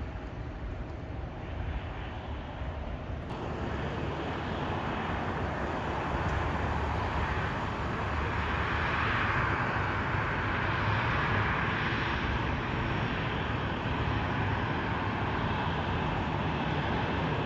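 Jet noise from a Boeing 737-700's CFM56 turbofan engines as it comes in to land: a broad roar that grows louder over the first several seconds, then holds steady.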